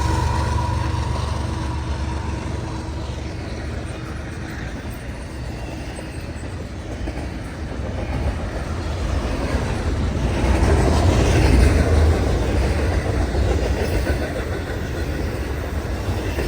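Freight train's intermodal cars rolling past, wheels rumbling and clacking over the rails, growing louder about ten seconds in.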